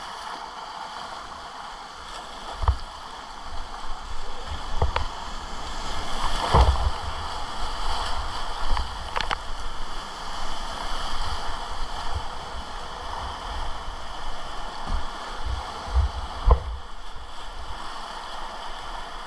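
Whitewater rapids rushing steadily around a kayak, with a handful of short, dull thumps scattered through.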